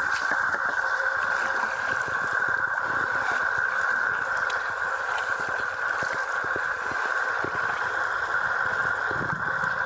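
Steady rushing water around a kayak, an even hiss with scattered small knocks and splashes.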